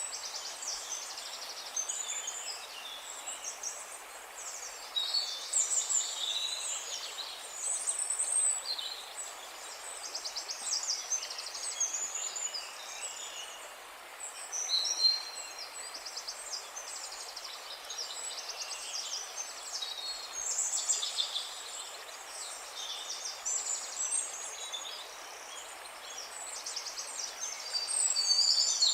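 Several songbirds chirping and trilling continuously over a steady background hiss.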